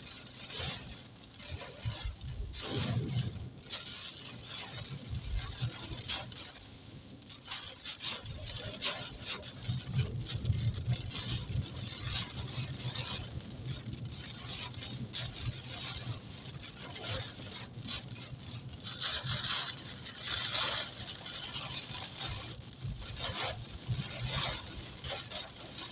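Heavy rain pelting a car's windscreen and roof, heard from inside the moving car, in uneven louder and softer gusts over a steady low rumble of engine and tyres on the wet road.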